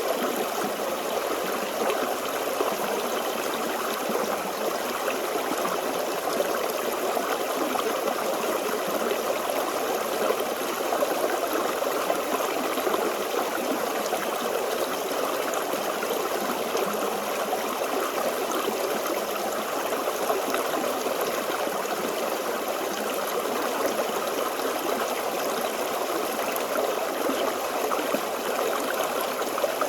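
Forest stream flowing and babbling steadily over rocks.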